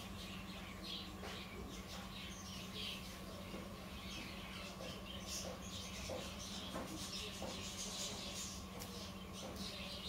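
Small birds chirping: many short, high chirps scattered all through, over a steady low hum.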